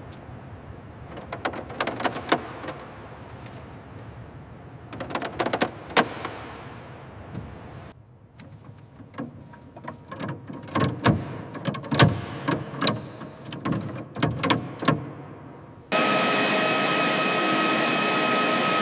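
Irregular metallic clicks and knocks for about sixteen seconds. Then a steady turbine whine with several held tones cuts in abruptly and is louder.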